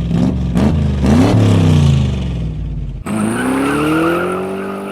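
Car engine revving, its pitch rising and falling. About three seconds in it breaks off and returns as a climbing whine that levels off and holds.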